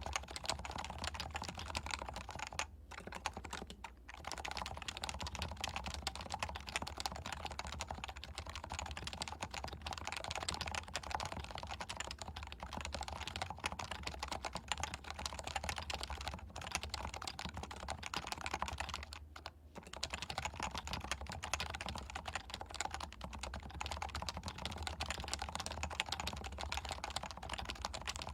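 Steady, fast typing on a Leopold FC660C keyboard with non-silenced 45 g Topre electrocapacitive switches, heard through a Shure MV7 microphone. The typing briefly pauses about three seconds in and again near twenty seconds in.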